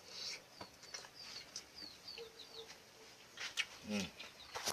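A small bird chirping over and over in the background: short high notes that slide downward, a few a second. Near the end there is a brief low voice-like sound and a few clicks.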